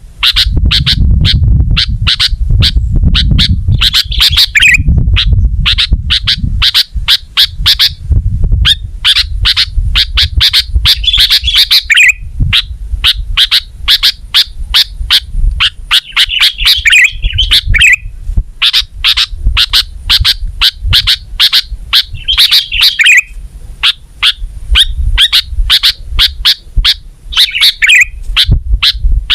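Sooty-headed bulbul (kutilang) calling without pause: a rapid run of sharp chirps, about four a second, broken every few seconds by a short warbling phrase. A low rumble runs underneath.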